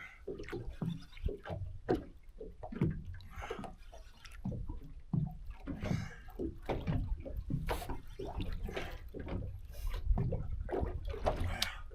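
Water sloshing and slapping irregularly against a small boat's hull, over a steady low rumble.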